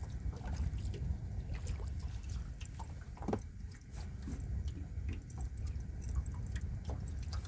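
Small water sounds: light lapping, dripping and trickling around a small boat, with irregular short ticks and splashes, over a steady low wind rumble on the microphone.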